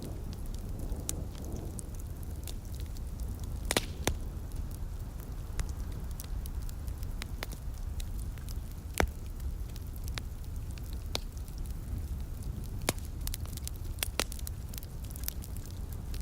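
Wood fire crackling in a fireplace: irregular sharp pops and snaps over a steady low rumble, with louder pops about four and nine seconds in.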